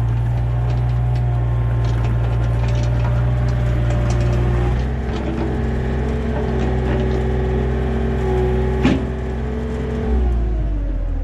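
Yanmar mini excavator's diesel engine running steadily as the machine travels on new tracks and rollers. There is a single sharp clank about nine seconds in, and the engine speed drops near the end.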